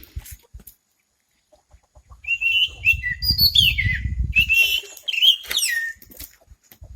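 A bird calling: a run of short whistled chirps, several falling in pitch, from about two seconds in to near the end. Under the first half of the calls runs a low rumble.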